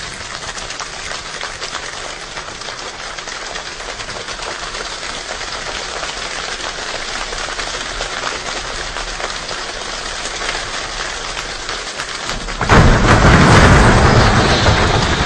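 Steady rainfall, a dense patter of drops that slowly grows heavier; about thirteen seconds in, a sudden much louder, deep surge takes over.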